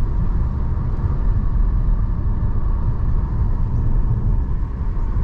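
Steady low rumble of road and engine noise inside a moving car's cabin, cruising at a constant speed.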